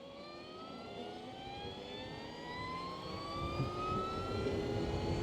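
Energica Experia electric motorcycle's motor whine, rising slowly and steadily in pitch and growing louder as the bike gradually gains speed, over a low rush of wind and road noise.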